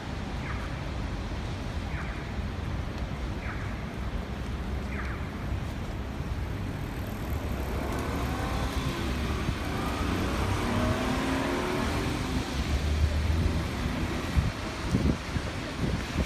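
A car passing by, its sound swelling and then falling away about halfway through, over a steady low wind rumble on the microphone.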